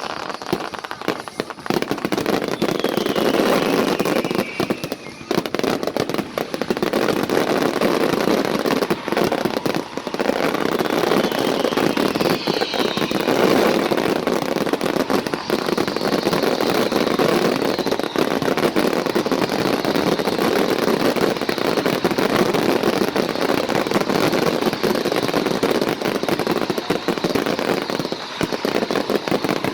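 Fireworks going off in a dense, continuous barrage of bangs and crackling, with a few whistles falling in pitch.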